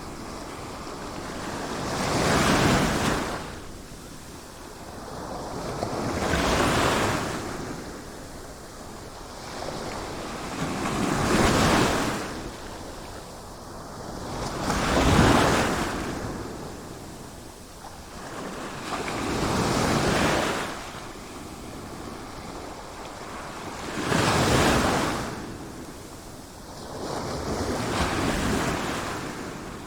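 Sea waves surging in and washing back in slow swells, about one every four seconds, each rising to a rush and fading away.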